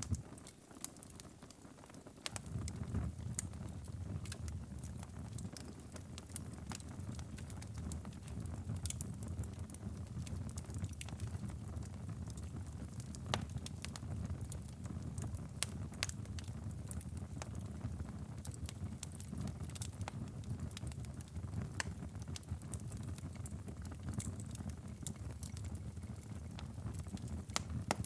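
Wood fire crackling, with frequent sharp pops and snaps scattered over a low, steady rumble. The rumble is missing for about the first two seconds, then comes in.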